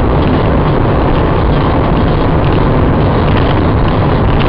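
Loud, steady rumble of a moving vehicle: road and engine noise with no distinct impact.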